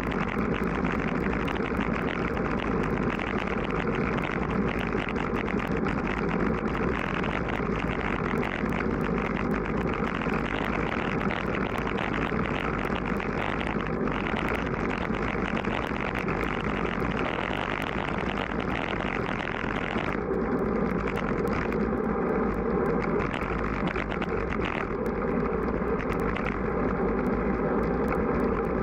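Strong wind buffeting the microphone of a moving road bike, a steady dense rush; the upper hiss thins about two-thirds of the way through.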